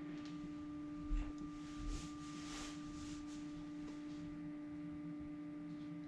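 Anycubic Photon Mono 4K resin 3D printer running just after a print is started, giving a steady low hum. Two faint knocks come about one and two seconds in.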